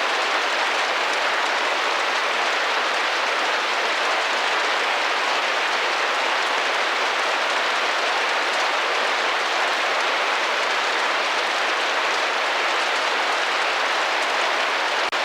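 Rain pattering against window glass: a steady, even wash of drops with no rhythm or pause, dipping only briefly just before the end.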